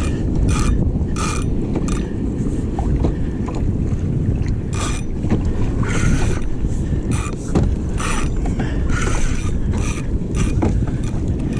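Wind buffeting the microphone on a fishing kayak, broken by about a dozen short, irregular bursts of a fishing reel's mechanical ratcheting as a heavy fish or a snag pulls against the line.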